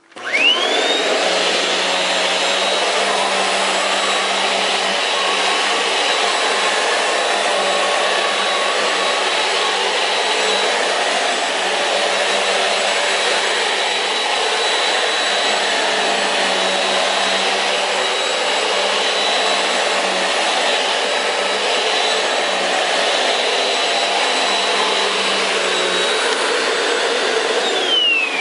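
Eureka Airspeed Zuum bagless upright vacuum cleaner switched on: the motor spins up with a quickly rising whine and then runs steadily with a high whine over a rush of air. It is switched off near the end, and the whine falls away.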